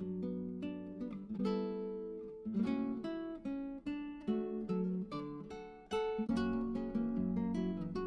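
Background music: acoustic guitar playing, plucked notes and chords in a steady flow.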